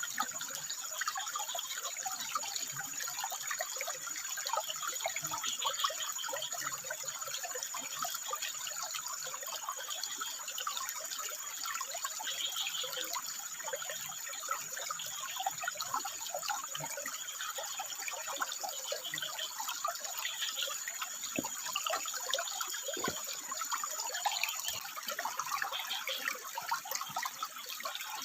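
Water trickling and splashing over rock in a steady, dense babble. A thin, steady high-pitched tone runs alongside it and stops near the end.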